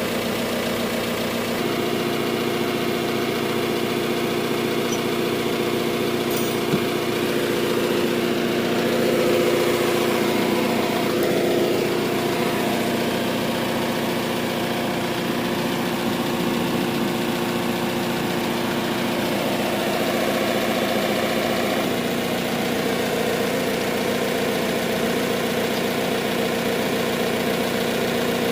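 Heavy-equipment engine running steadily, speeding up a little about nine to twelve seconds in, with one sharp click about seven seconds in.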